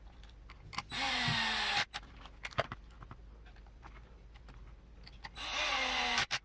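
Electric screwdriver running in two bursts of about a second each, about a second in and again near the end, driving small cap head screws into RC transmission parts. Sharp clicks of small parts being handled fall in between.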